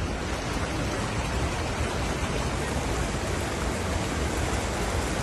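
Fast-flowing floodwater rushing steadily, a dense even noise with a low rumble underneath.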